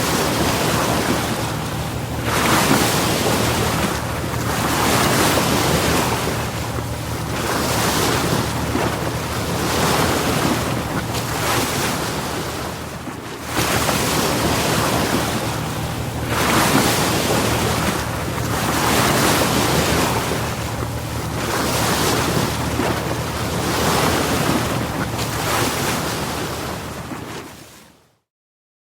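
Sea waves washing onto the shore, the surf swelling and falling back every few seconds, with wind rumbling on the microphone. The sound cuts off abruptly near the end.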